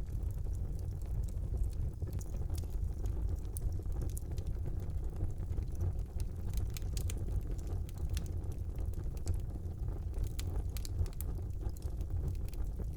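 Wood fire burning in a brick fireplace: a steady low rumble of the flames with scattered sharp crackles and pops.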